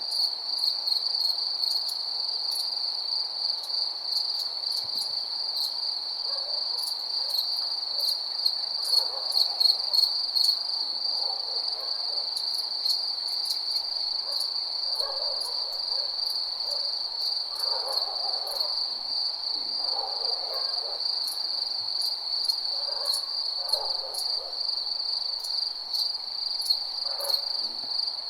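Night insect chorus, crickets trilling in a steady shrill drone, with lower calls coming and going every second or two.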